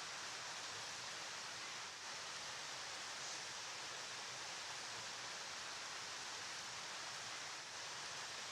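River water flowing and rushing, a steady, even hiss with no breaks.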